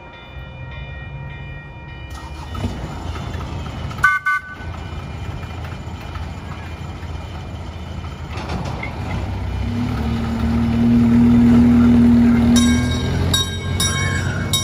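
Ride-on train running with a steady low rumble, sounding a short high toot about four seconds in, then a long, loud low horn blast for nearly three seconds. Repeated ringing strikes follow near the end.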